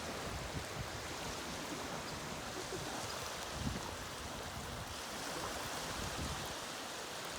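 Steady rush of moving water, with a few soft low thumps.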